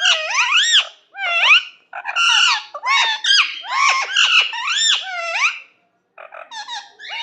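Pet parrot chattering: a fast run of chirps and whistles sliding up and down in pitch, with a short pause about six seconds in.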